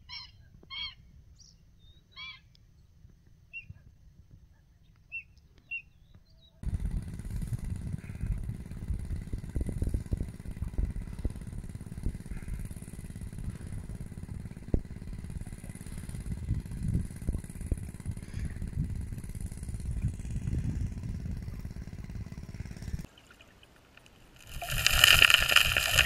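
Birds calling with a few short, sharp notes, then an abrupt change to a loud low rumbling noise for about sixteen seconds. Music starts near the end.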